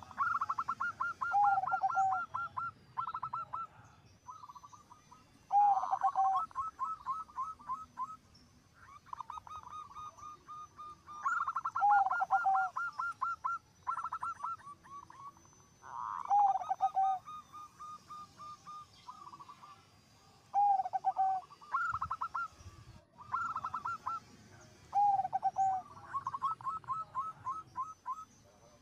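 Zebra dove (perkutut) singing: phrase after phrase every few seconds, each a quick run of staccato notes followed by lower coos.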